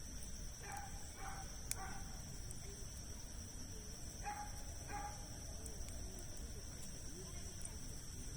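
A dog barks three times in quick succession, then twice more about three seconds later. Under it are a steady high insect trill and the occasional sharp crackle of a wood campfire.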